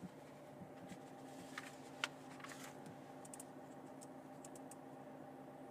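Faint clicks of steering-wheel control buttons being pressed, a scattered handful between about one and a half and five seconds in, over a low steady hum.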